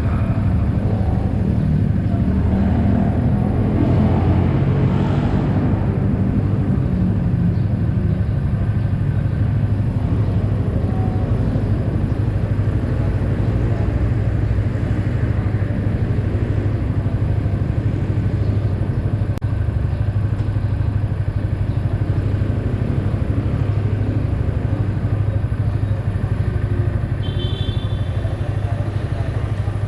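Yamaha XSR 155's single-cylinder engine running steadily on the road. A short high-pitched tone sounds near the end.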